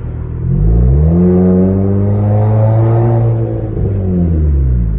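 Hyundai Sonata engine with the muffler and resonator deleted, revved once: the note climbs from idle about half a second in, is held high for a couple of seconds, then drops back to idle near the end.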